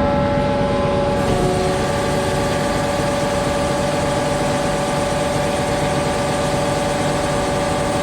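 Concrete pump truck's engine and hydraulic pump running with a steady whine while a hydraulic outrigger is extended. About a second in, the whine drops a little in pitch and a hiss comes in as the hydraulics take the load.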